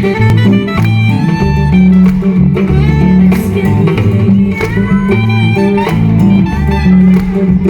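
A live rock band playing, with a guitar melody over a heavy bass line and a steady drum beat.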